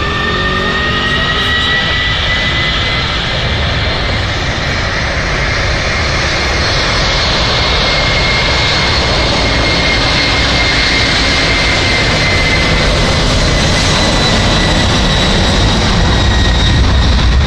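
Jet airliner's engines at takeoff thrust: a steady high whine over a broad roar, with the low rumble swelling toward the end.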